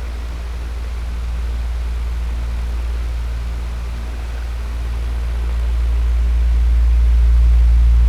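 Electric fan running steadily: a strong low hum under an airy rush of noise. It swells slowly louder toward the end.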